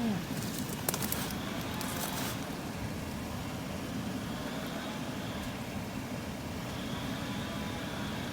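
Vehicle engine running steadily at idle, a low even rumble, with a few sharp clicks and crackles in the first couple of seconds.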